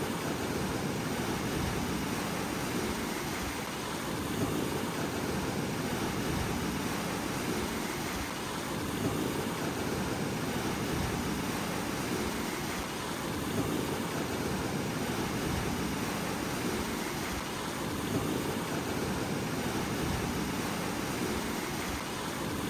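Ocean surf washing steadily, the rush swelling and easing every few seconds.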